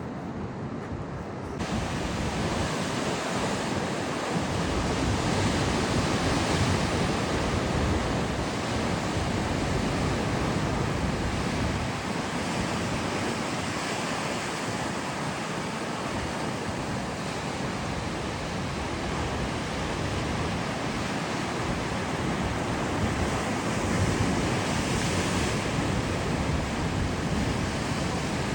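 Rough, stormy sea: waves surging and breaking in a steady, loud wash, with wind buffeting the microphone. The surf grows louder about a second and a half in.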